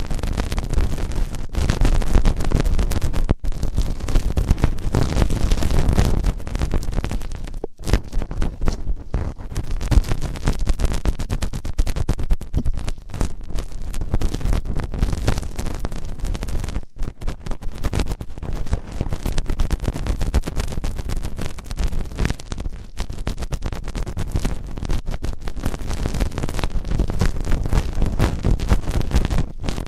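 ASMR ear cleaning: dense, close scratching and rubbing right at the microphone, crackly and continuous with a few brief breaks.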